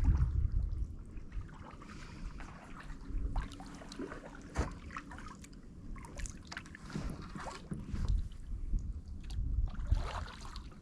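Kayak paddling: paddle blades dipping and dripping in the water, with a few light clicks and knocks. Wind rumbles on the microphone about the first second.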